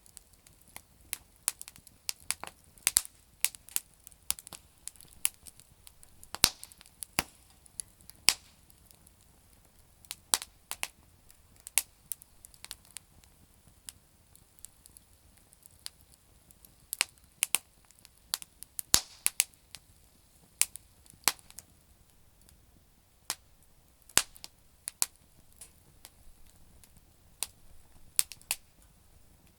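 Campfire of damp firewood crackling: sharp, irregular pops and snaps, some close together in quick clusters and others spaced a second or more apart, over a faint low hiss.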